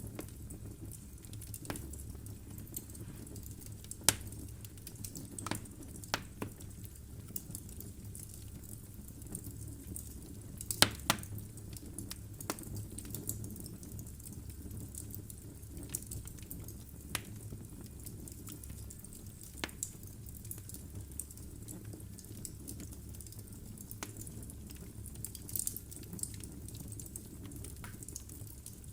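Wood fire burning logs in a fireplace: a low steady rumble of the flames with scattered crackles and pops from the firewood, the sharpest snaps about 4 and 11 seconds in.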